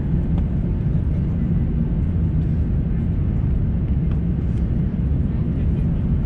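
Steady low rumble of an Airbus A350-900 airliner heard from inside the passenger cabin: engine and airflow noise at an even level, with a few faint ticks.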